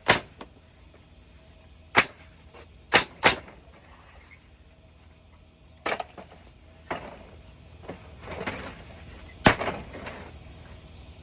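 Hammer blows on pallet wood: about seven sharp, irregularly spaced strikes, two in quick succession about three seconds in, with a rougher, longer noise shortly after eight seconds.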